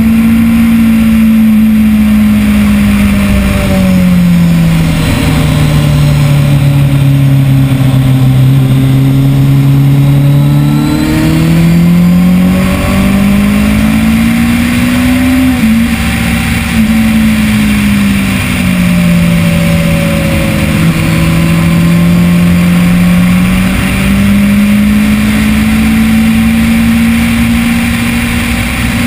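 Onboard sound of a 2010 Kawasaki ZX-10R's inline-four engine at track speed under heavy wind rush. Twice the engine note drops and stays low for several seconds, then climbs again through stepped gear changes as the bike drives out.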